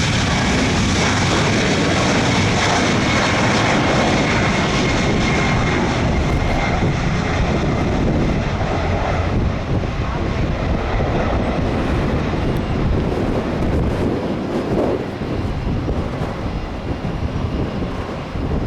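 Southwest Boeing 737 MAX 8's CFM LEAP-1B turbofan engines passing close by, with a loud steady rush and a faint high whine, growing a little quieter and more uneven in the second half.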